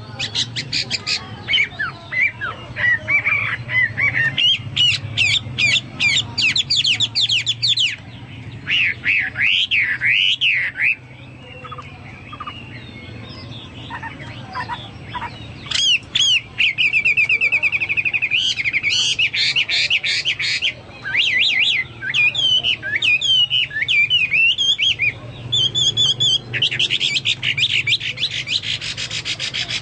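Hwamei (Chinese hwamei) singing vigorously, a long, varied song of rapid trills, whistles and chattering notes in the style of a cucak Papua or cucak mas, with a quieter stretch in the middle.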